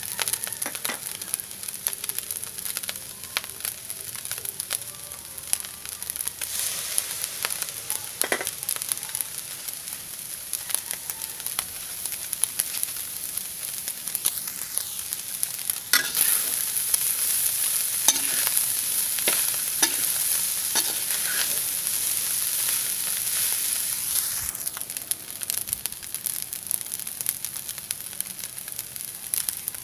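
Rice frying in a wok and being stirred with a spatula: a steady sizzle with frequent scraping clicks of the spatula on the pan, the sizzle louder for several seconds past the middle.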